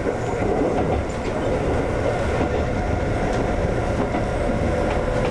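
Konan Railway 7000-series (ex-Tokyu 7000) electric train running along the line, heard from inside the car: a steady rumble of wheels on rail with occasional faint clicks.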